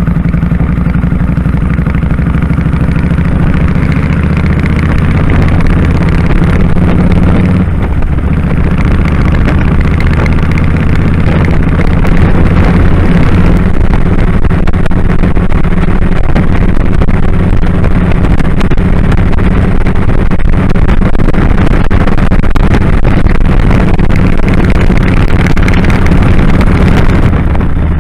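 2001 Kawasaki Drifter 1500's V-twin engine running steadily on the move, with a brief break in its note about eight seconds in.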